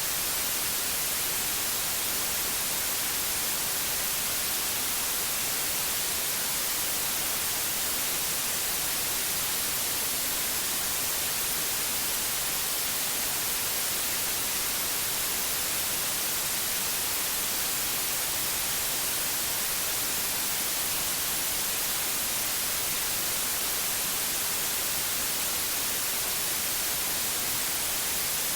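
Steady, unchanging white noise: an even hiss across all pitches, brightest in the highs, generated as a sleep aid.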